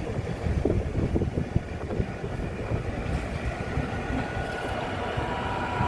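Train running on the track: a steady low rumble of wheels on rails with short irregular knocks.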